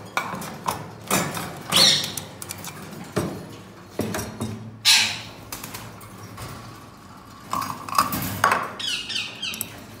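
Caged pet birds squawking: a few loud, harsh squawks a few seconds apart, then a quick run of short falling chirps near the end.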